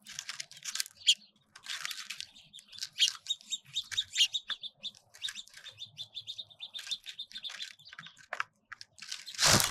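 Small songbirds at a feeder chirping and twittering, with a run of rapid repeated high notes through the middle. A brief loud rustle near the end.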